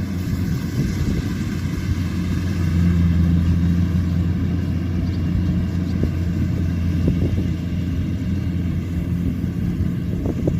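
Kubota combine harvester running steadily at working speed: an even, low engine hum with machinery noise over it.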